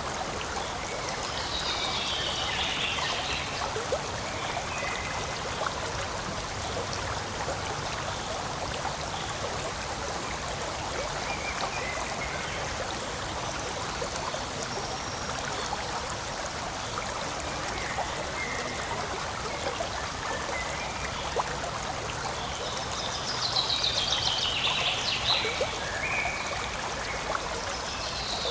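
Forest stream running steadily over stones, a continuous even rush and trickle of water. A high, rapid chirping call comes in twice, about two seconds in and again near the end.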